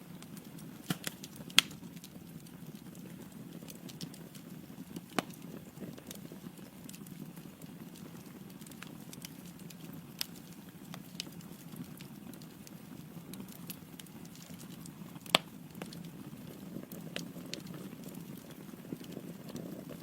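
Wood fire burning in a fireplace: a steady low rustle of flames with scattered sharp crackles and pops from the logs, the loudest pops about one and a half seconds in and again about fifteen seconds in.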